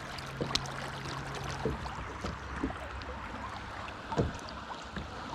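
Creek water running around a canoe, with scattered light knocks and taps in the boat as a freshly netted trout is handled. A faint low hum runs through the first couple of seconds.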